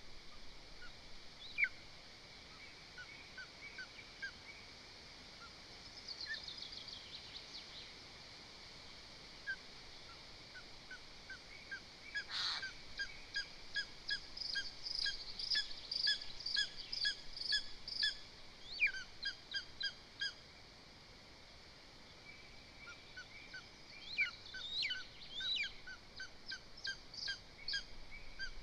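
Lesser spotted eagles calling: long series of short, clear, evenly repeated yelping notes, about three a second, in two bouts. A brief descending trill comes earlier, and there is a single sharp knock at the nest about twelve seconds in.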